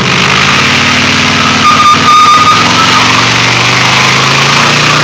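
Pontiac Firebird doing a burnout: the engine held at high revs, climbing in pitch near the end, with a high steady squeal of spinning tyres in the middle.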